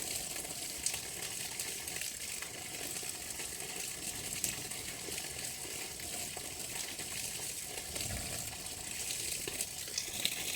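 Steady rushing, water-like noise with many small clicks and ticks scattered through it.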